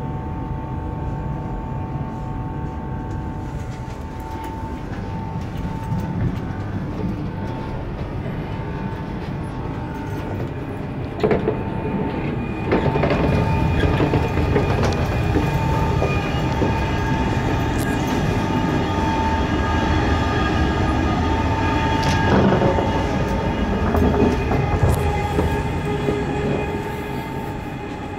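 SNCB train running into the station: a continuous rumble with a steady whine, growing louder about halfway through and easing off near the end, with a few sharp clacks of the wheels over the rails.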